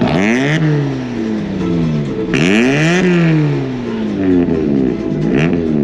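Car engine revved repeatedly: the pitch climbs sharply, then falls away as the throttle is released, about three times, with the harshest peak a little over two seconds in.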